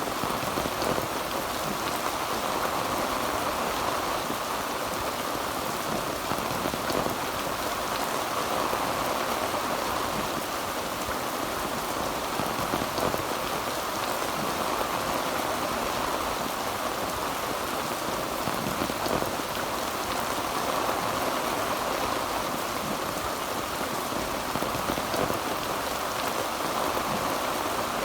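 Heavy rain drumming steadily on a tin roof, a dense patter of drops.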